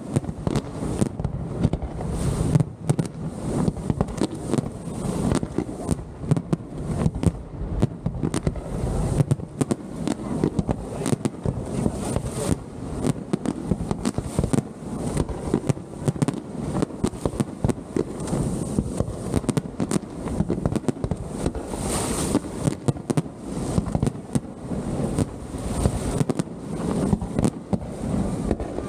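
Pirotecnia Vulcano fireworks display bursting without a break: a continuous barrage of bangs and crackles, several each second.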